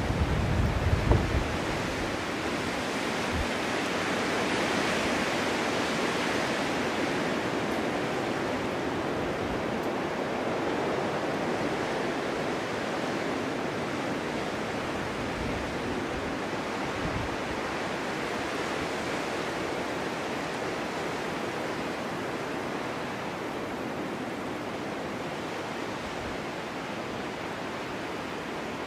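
Snowstorm wind blowing steadily. A gust swells a few seconds in and then slowly dies down, with low buffeting on the microphone near the start.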